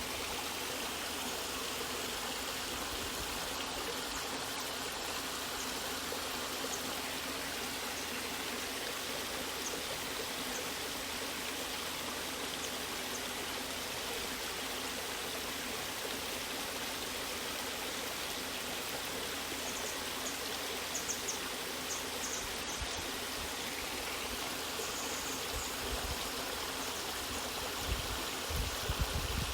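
Natural waterfall, water rushing and splashing steadily without a break. A few brief low bumps come near the end.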